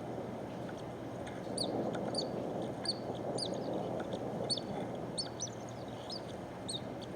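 Small birds calling, about a dozen short, high chirps that sweep downward, scattered through most of the stretch over a steady low background noise.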